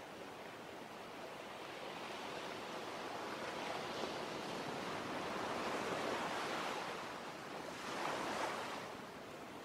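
Sea waves washing in: one long swell that builds over several seconds, then a second, shorter one near the end.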